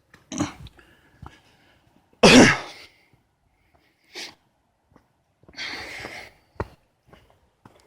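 A person coughing, with a few separate coughs or breathy bursts, the loudest about two seconds in, and a few sharp knocks between them.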